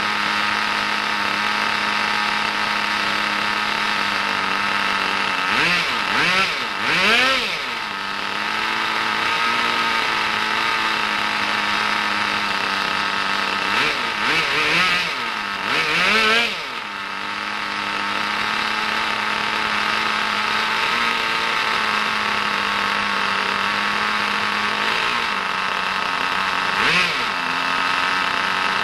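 Small Kyosho GS-11X glow-fuel engine of an RC car, brand new and on its first run, idling steadily. It is revved up and back down in quick blips twice, a few at a time, and blipped once more briefly near the end.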